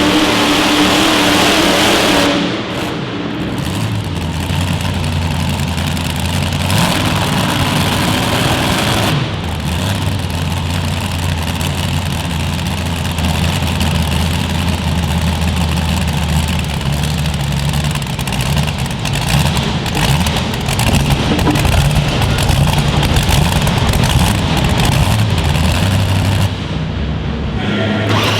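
A pulling vehicle's big engine running loud and fairly steady, with abrupt jumps in the sound a few times along the way.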